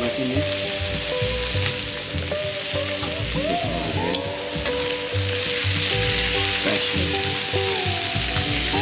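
Meat and vegetables sizzling steadily on a hot flattop griddle, with faint background music underneath.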